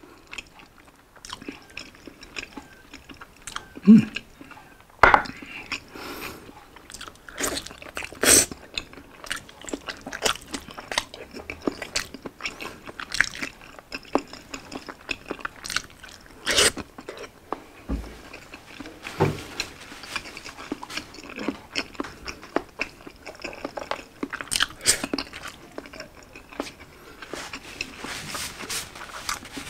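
Close-miked eating of fried egg dipped in sauce, Spam and rice, eaten by hand: steady chewing and biting with many short wet smacks and clicks.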